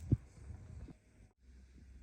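A single dull thump near the start, followed by a couple of softer knocks, then a low steady hum after a brief cut-out.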